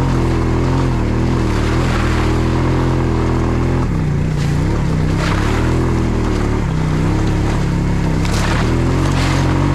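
ATV engine running as the quad is ridden, its pitch dipping and rising with the throttle about four seconds in and again near the end.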